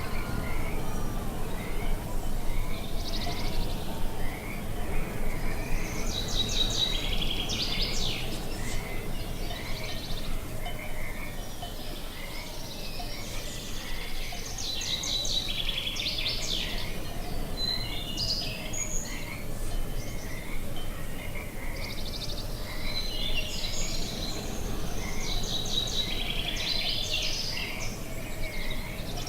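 Songbirds singing in several bursts of quick, high phrases, over a short chirp that repeats steadily about three times every two seconds and a low steady noise of outdoor ambience.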